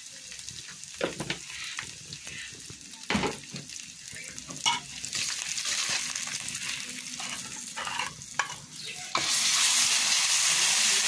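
Spice mixture frying in oil in a wok, sizzling steadily while a metal spatula stirs and scrapes it, with scattered scrapes and knocks against the pan. About nine seconds in, the sizzle suddenly gets much louder.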